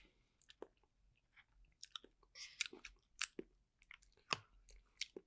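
A person chewing a spicy pork wonton in chili sauce close to the microphone: irregular wet smacks and mouth clicks, the loudest a little past three and four seconds in.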